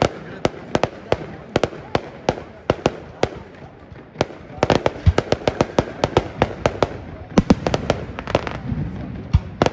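Fireworks display: a rapid run of sharp bangs and crackles from bursting shells, growing much denser about halfway through.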